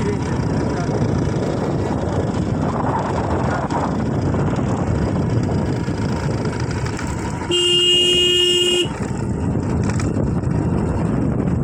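Steady engine and wind rumble, cut across about two-thirds of the way through by a single vehicle horn blast lasting just over a second.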